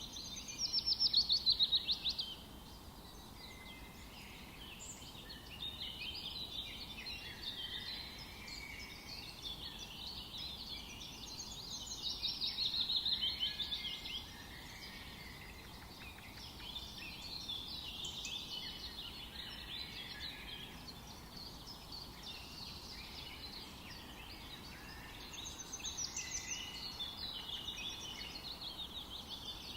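A chorus of several songbirds singing and calling in a forest. About a second in, around the middle, and near the end, a louder rapid trill of quickly repeated notes falls in pitch.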